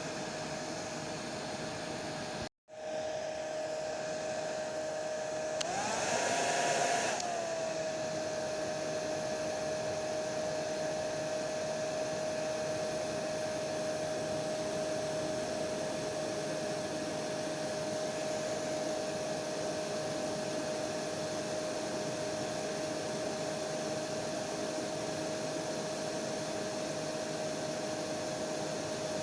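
Electric hair dryer blowing steadily: an even rush of air with a steady motor whine. About two and a half seconds in the sound cuts out for an instant, and a few seconds later the whine briefly rises in pitch and gets louder before settling back to its steady note.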